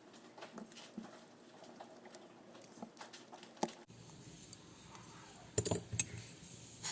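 Light scattered clicks and taps from a small calculator watch and its parts being handled, with a quick cluster of sharper clicks a little past two-thirds of the way through.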